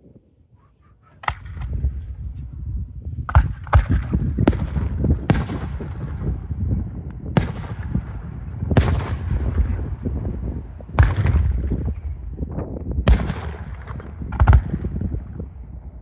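Firework shells bursting overhead in a series of about ten loud bangs, starting about a second in, each followed by a rolling echo, over a continuous low rumble.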